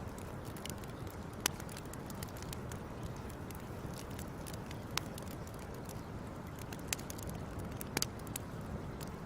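Wood fire burning with a steady low rush and scattered sharp crackles and pops, a few louder pops about a second and a half, five, seven and eight seconds in.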